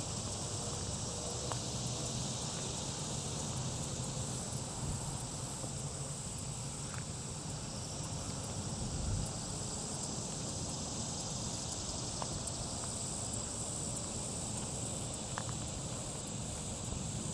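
Steady high-pitched insect chirring, with a low rumble underneath and a few faint ticks.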